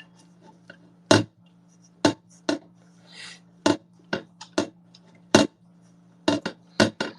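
Dishes being washed by hand: a dozen or so sharp clinks and knocks of crockery, glass and cutlery striking one another, with a brief hiss about three seconds in and a steady low hum underneath.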